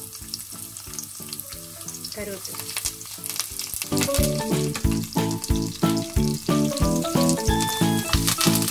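Chopped shallots sizzling and crackling in hot oil in a non-stick kadai, with a wooden spatula stirring them near the end. Background music with a steady beat comes in louder about four seconds in.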